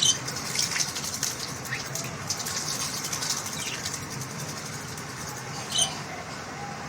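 Pet common myna bathing: water splashing and wings fluttering in quick strokes, busiest in the first couple of seconds, with a short sharp splash or call at the start and again about six seconds in.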